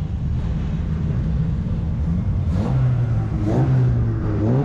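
A 1300cc stock car engine running with a low, steady note, blipped up in revs three times in quick succession in the second half.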